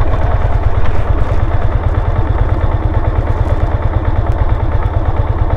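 Yamaha motorcycle engine running at low revs, a steady low rumble pulsing fast, as the bike creeps along a rough off-road track.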